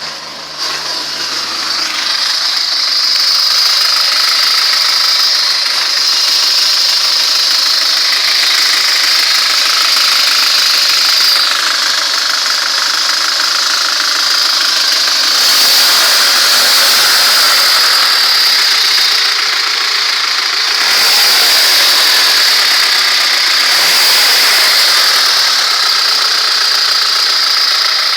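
ZMZ-406 carburettor inline-four engine running steadily, with a dull knocking and noise of unknown cause that the owner finds suspicious. It grows louder over the first couple of seconds, then holds steady.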